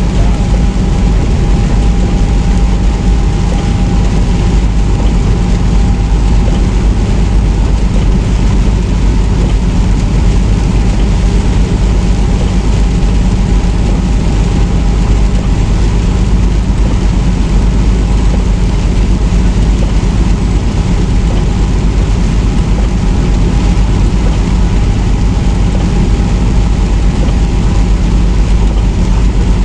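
Semi truck driving at steady speed: a constant low engine and road rumble with a faint steady whine.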